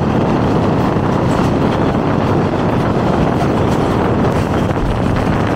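Passenger train running along the tracks, heard from an open carriage window: a loud, steady rush of wheel and track noise with wind buffeting the microphone.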